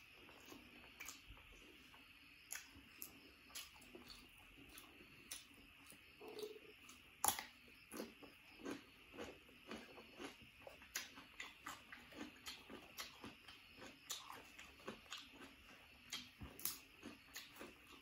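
A person chewing and eating rice with sambal fish and raw cucumber, with soft chewing and frequent short mouth clicks, about two a second in the second half. One sharper bite sound comes about seven seconds in.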